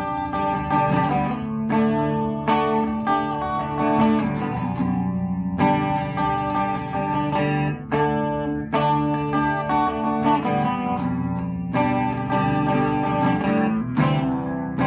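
Donner DMT-100 electric guitar being played: chords strummed and picked, each left to ring for a second or two before the next.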